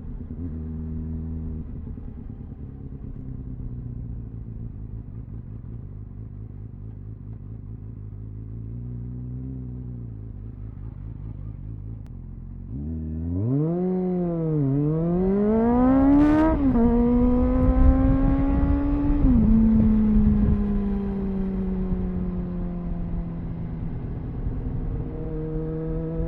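Onboard sound of a Triumph Speed Four's 600cc inline-four engine on its stock exhaust, running low and steady for about thirteen seconds, then revving hard as the bike pulls away, with two upshifts a second or two apart. It then settles to a steady cruise with the pitch slowly falling, and starts to rise again near the end, with wind noise under it.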